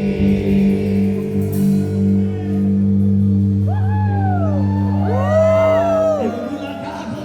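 A live rock band, drums and amplified guitars, lets a long held chord ring out in a large hall. In the second half, shouts and whoops with rising-and-falling pitch come in over the fading chord.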